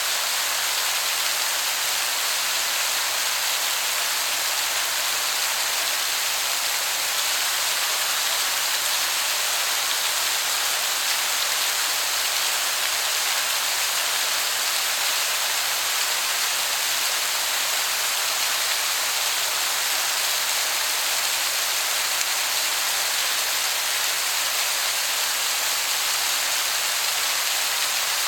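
Waterfall pouring steadily: a constant, even hiss weighted toward the high pitches that sounds like heavy rain.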